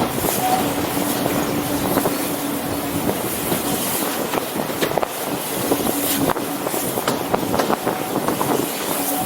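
Steam-hauled passenger train running along the track: a steady rumble with scattered clicks and knocks from the wheels and carriages.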